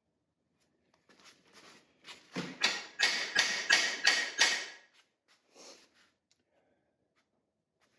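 Hammer striking the driver of a Lisle 18000 cam bearing tool, driving a cam bearing into a small block Ford block. It is a quick run of about a dozen ringing metallic blows, growing harder in the middle, with one lighter strike after a short pause.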